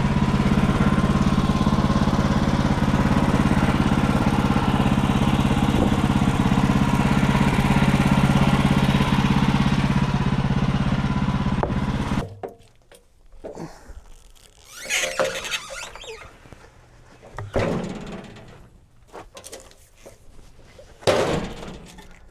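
Portable bandsaw sawmill's engine running steadily, then shut off abruptly about twelve seconds in. Scattered rubbing and scraping sounds follow, several seconds apart.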